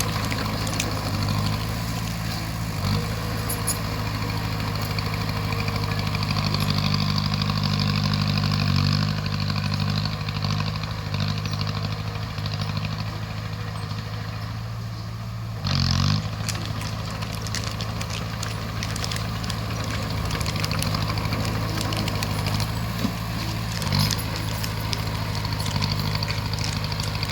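Bulldozer's diesel engine running steadily under working load, with light clattering. A few brief louder surges, the strongest about two-thirds of the way through.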